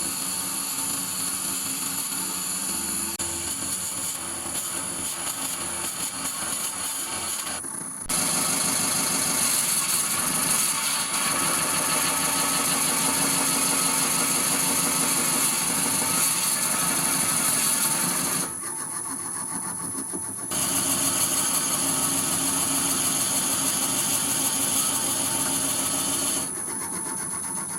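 Wood lathe running while a 45 mm Forstner bit bores a shallow recess into the turning blank. The sound is steady and grows louder in two long stretches, the first from about a quarter of the way in, the second near the end.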